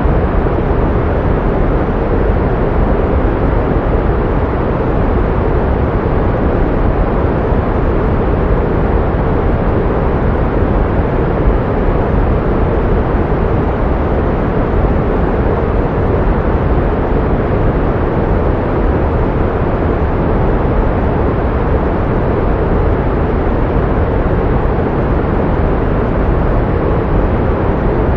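Pink noise: a steady, unchanging rushing hiss, heavier in the lows and soft in the highs.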